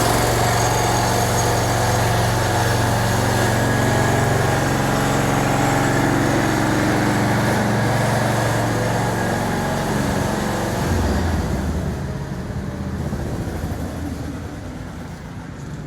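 Wheel Horse garden tractor's small engine running steadily. Its pitch drops about eleven seconds in, and it fades over the last few seconds.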